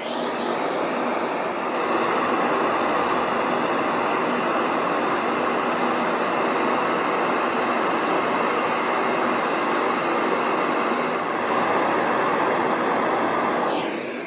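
A power tool's motor runs steadily and loudly for about fourteen seconds, spinning up at the start and winding down near the end.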